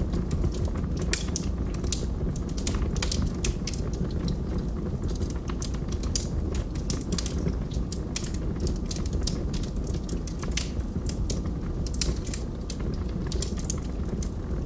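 Log fire burning in a fireplace: a steady low rumble with many sharp crackles and pops, several a second.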